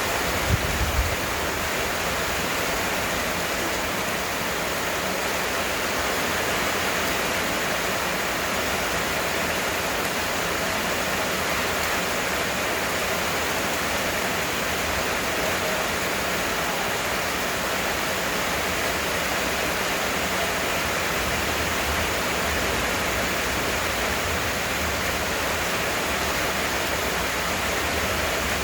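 Heavy rain falling in a steady, even hiss, with a couple of brief low thumps about a second in.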